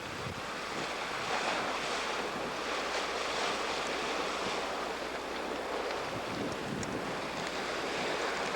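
Steady rush of open-ocean waves and sea water around a sailboat under way, with wind buffeting the microphone.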